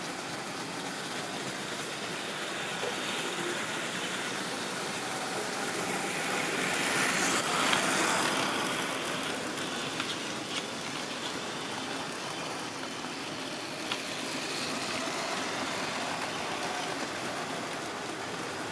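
Model railway train running on the track: a steady whirring rumble that swells as it passes closest, about halfway through, with a few sharp clicks later.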